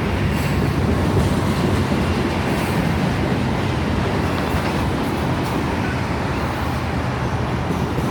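Cars of a mixed freight train rolling past at speed: a steady rumble of steel wheels on rail.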